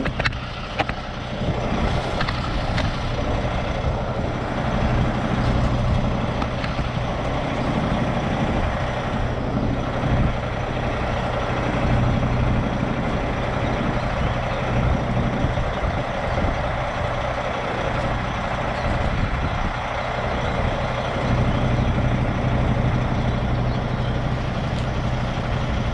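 Semi-truck diesel engine running steadily with a low hum, while the tractor is backed under a trailer to couple to it.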